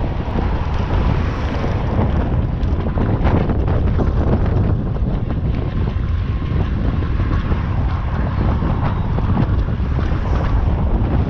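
Strong wind buffeting the microphone: a steady, heavy low rumble with no let-up.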